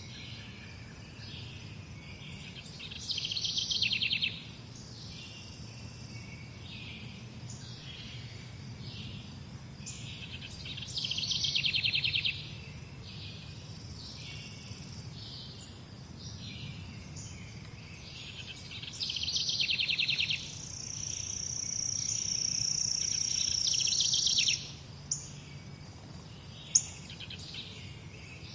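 Morning birdsong: several songbirds chirping, with a loud rattling trill that comes back about every eight seconds. A long high thin note swells for a few seconds after the third trill, and a couple of sharp chips follow.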